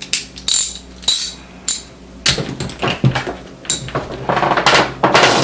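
A socket wrench working at a roller skate's wheel axle nut, metal on metal: a few separate sharp clinks, then from about two seconds in a denser run of rapid clicking and scraping as the tool is turned on the nut.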